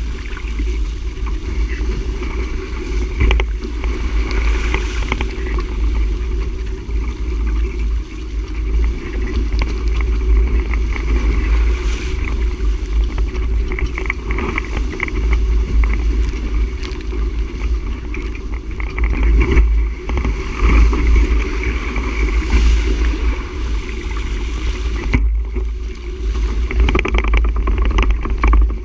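Wind buffeting the camera microphone, with water rushing and slapping along a sailboat's hull while it is under way.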